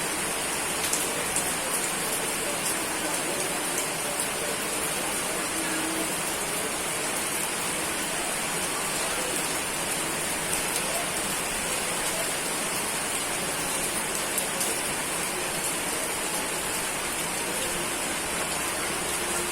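Steady rain falling on surfaces: an even, continuous hiss with scattered sharp drop ticks.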